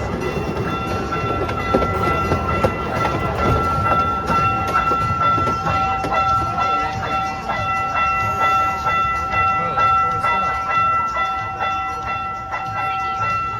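Miniature train running along its track, with rapid clicking and knocking from the wheels and cars, under a steady high ringing tone with several overtones. A lower tone joins about six seconds in.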